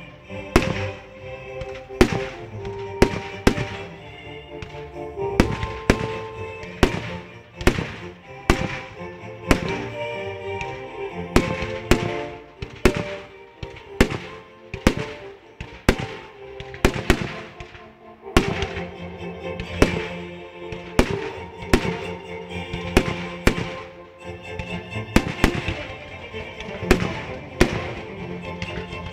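Aerial firework shells bursting in a continuous string of sharp bangs, roughly one or two a second, with music playing underneath.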